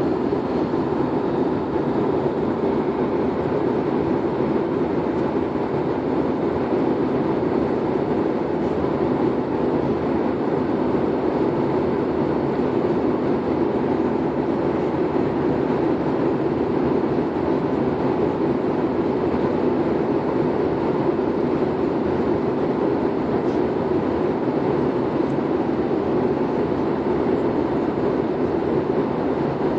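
Steady cabin noise of an airliner in flight: the even rush of engines and airflow, unchanging in level.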